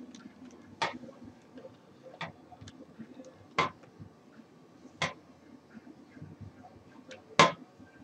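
Five sharp taps or knocks, a second or two apart, the last one the loudest.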